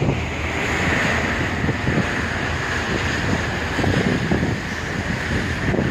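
Strong wind blowing across a phone's microphone over the rush of rough sea waves, a steady, unbroken noise.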